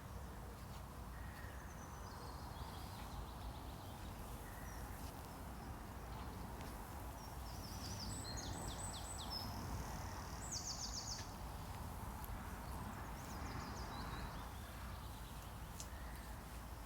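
Songbirds singing in short, rapid high trills, several in a row in the middle, over a steady outdoor hiss.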